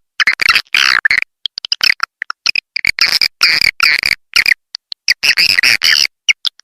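Swiftlet calling recording: rapid chirps and buzzy twittering in quick bursts with short gaps. It is a lure call played to draw swiftlets into a swiftlet house.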